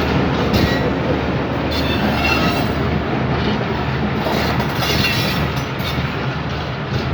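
Pakistan Railways passenger train running past on departure: a steady rumble of coach wheels on the track, with brief faint squeals of wheels against rail coming and going.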